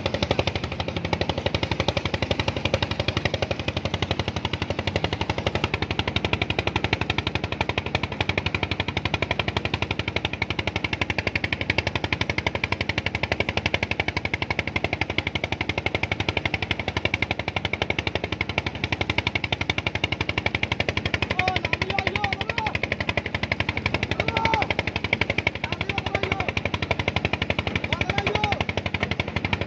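A small engine running steadily, with a fast, even knocking that never lets up. Faint voices come through underneath near the end.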